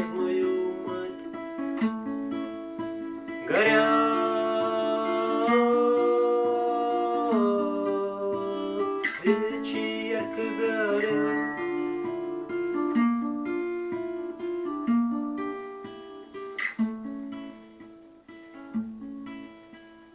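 Solo acoustic guitar playing the slow closing passage of a ballad, with picked notes and chords. It fades away over the last few seconds.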